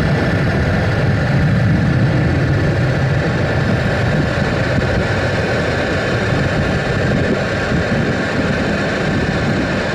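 Steady, loud engine rumble with a steady higher whine above it, unchanging throughout.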